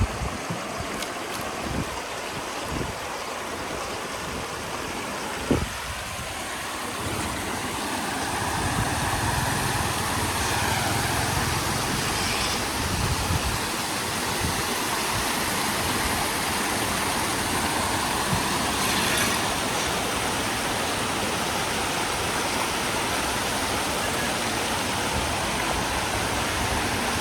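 Steady rush of flowing floodwater, with a low steady hum joining about eight seconds in and a few short knocks in the first seconds.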